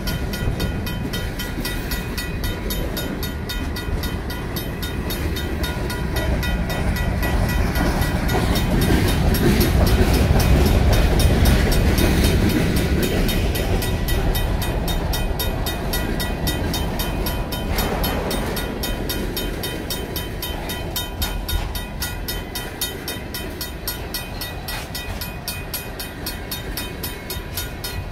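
A Union Pacific mixed freight train's tank cars and covered hoppers rolling past close by: a steady rumble of wheels on rail that swells to its loudest about a third of the way in and then eases. The crossing's mechanical bell rings steadily over it.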